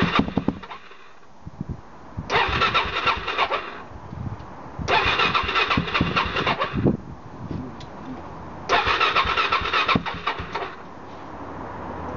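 Electric starter cranking the Suzuki DRZ 400 SM's single-cylinder four-stroke engine in three separate tries of a second or two each, with irregular low thumps in between; the engine does not settle into running on its first start with the new FMF exhaust.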